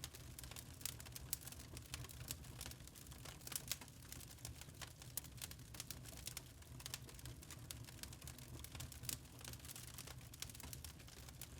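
Wood fire in a fireplace crackling, with frequent irregular sharp pops and snaps over a low, soft rumble of the flames.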